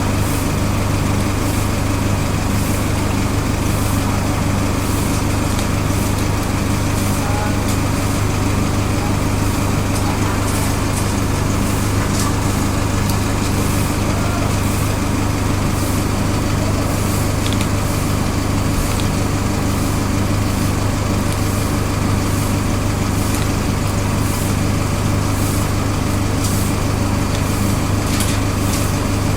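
Steady low mechanical hum, unchanging throughout, with scattered faint high clicks over it.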